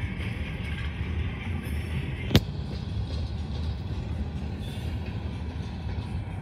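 Coal train hopper cars rolling past, their wheels running over the rails with a steady rumble. One sharp knock about two and a half seconds in.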